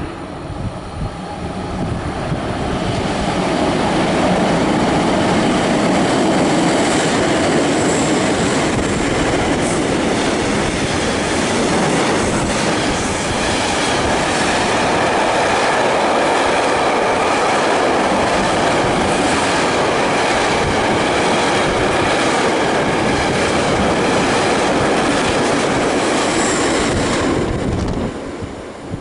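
Train hauled by an SBB Re 620 (Re 6/6) electric locomotive passing close by: a steady, loud rumble of steel wheels on rail with rhythmic clacking over rail joints and a couple of brief high squeals. It swells over the first few seconds and drops away near the end as the last wagon goes by.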